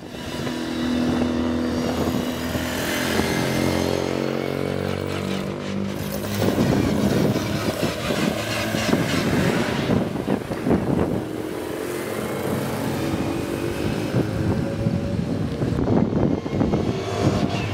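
Classic Mini Cooper racing engines, BMC A-series four-cylinders on side-draft Weber carburettors, running hard on track. The engine note holds fairly steady for the first few seconds, turns rougher in the middle, and climbs again as a car accelerates later on.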